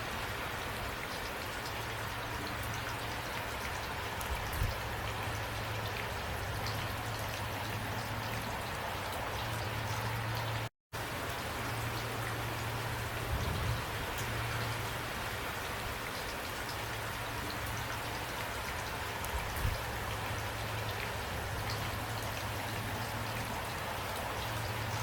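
Steady rain falling, a dense even hiss with scattered individual drop ticks and a low steady rumble underneath. The sound cuts out completely for a split second about eleven seconds in.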